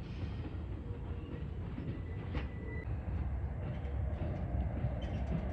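Train running by with a steady low rumble, and a short thin high tone about halfway through.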